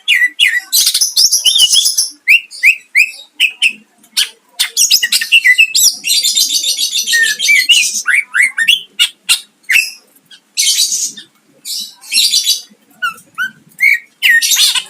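Cucak ijo (green leafbird) singing loudly and continuously: quick sliding whistled notes alternating with long, rapid buzzy trills, the longest lasting about two seconds near the middle. Its song is full of phrases mimicked from other birds.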